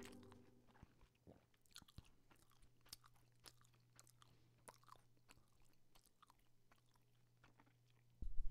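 Faint, close-miked chewing of Icelandic hangikjöt (hanged meat): soft mouth clicks about every half second, dying away about six seconds in, over a low steady hum.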